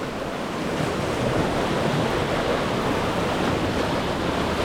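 Whitewater rapids rushing steadily around an inflatable kayak as it runs the river's final drop.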